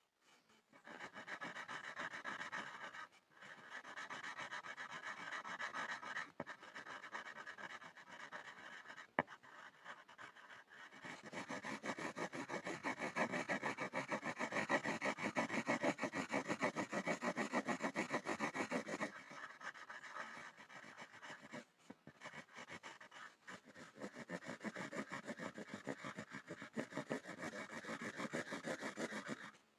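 Pencil scribbling on a wooden board in rapid back-and-forth strokes, stopping briefly several times; it is louder and fuller for a stretch in the middle.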